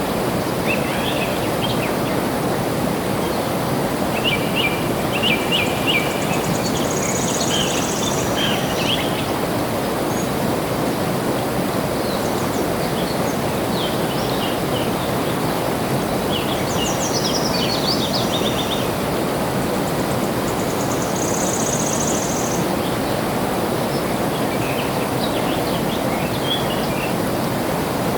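Steady rush of flowing water, with small birds chirping in short trills every few seconds and a few higher, thinner notes now and then.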